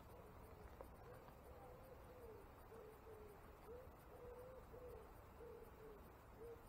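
Faint, soft hooting calls of a bird: a string of short low notes, each a fraction of a second long, repeated about twice a second over near-silent woodland quiet.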